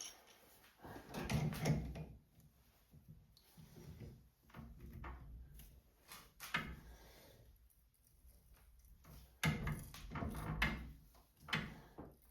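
Hand-tapping a thread in a part held in a lathe: irregular creaks and scraping knocks a second or two apart as the tap is turned and backed off, loudest a little after halfway.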